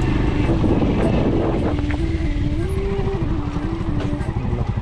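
Small motorbike engine running while riding, its revs stepping up around the middle and easing back down.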